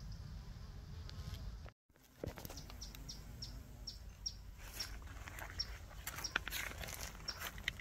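A bird repeating a short, high, downward-slurred call note roughly every half second, over a low wind rumble on the microphone. The sound cuts out completely for a moment about two seconds in.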